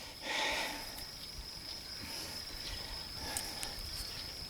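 Two brief rustles of handling, one just after the start and a fainter one about three seconds in, over a steady high-pitched trill that sounds like an insect.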